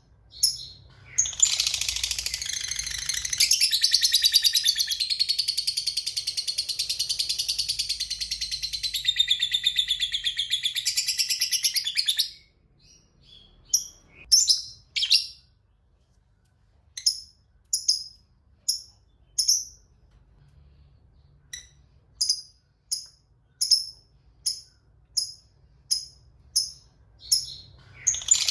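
Lovebird giving its ngekek: a long, rapid, high chattering trill lasting about eleven seconds, the prized 'ngekek panjang' (long chatter). Then it gives short separate chirps about one a second, and breaks into another long trill near the end.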